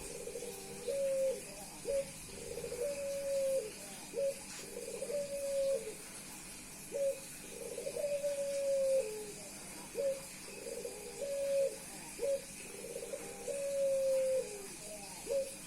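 Male puter pelung dove cooing over and over, each call a short note followed by a long held coo that drops at its end, repeating about every two seconds. This nonstop cooing is his courtship display on meeting a female.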